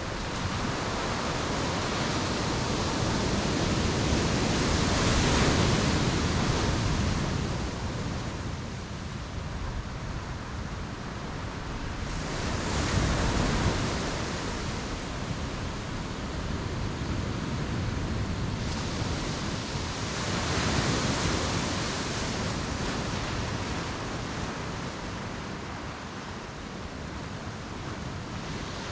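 Sea waves breaking on the beach, a continuous wash that swells with each wave about every eight seconds, three surges in all.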